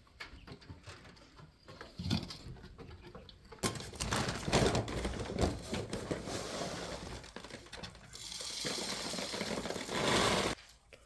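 Rustling and clattering handling noises. A steady rushing hiss runs for about two seconds near the end.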